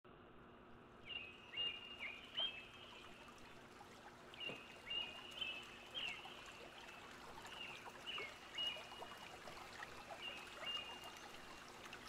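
Birds calling: thin, high whistled notes with short upward and downward flicks, in about four brief bursts, over a faint steady background hiss.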